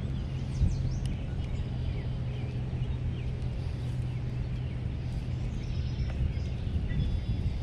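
Small birds chirping and singing over a steady low hum.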